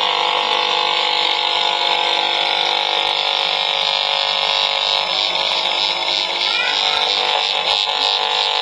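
A radiation meter's audio output sounding a steady, loud electronic buzz as it reacts to a running microwave oven, which the uploader takes as microwave leakage through the oven's shielding.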